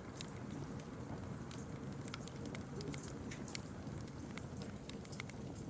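Wood fire crackling: a steady low hiss and rumble with frequent sharp pops and snaps at irregular intervals.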